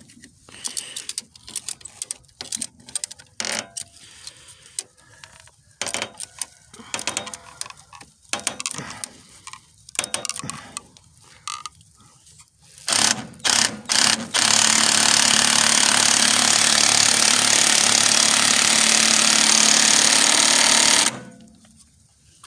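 Irregular clicks and knocks of hand tools and metal parts being worked, then a loud, steady mechanical noise that runs for about six and a half seconds and cuts off suddenly near the end.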